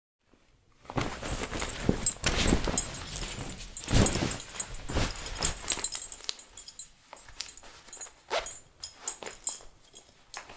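Farting sound effect: a run of irregular, sputtering fart noises starting about a second in. They are densest over the first few seconds, then thin out to scattered short blasts.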